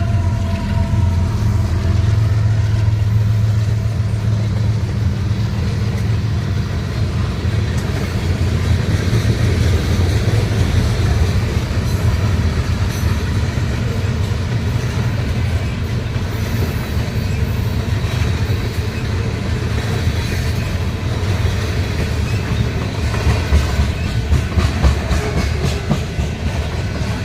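BNSF manifest freight train rolling past: a steady, loud low diesel rumble with the wheels clicking over the rail joints. The clacks come thicker in the second half.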